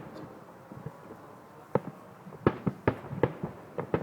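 Fireworks exploding: after a quieter first half, a run of about six sharp bangs, several in quick succession.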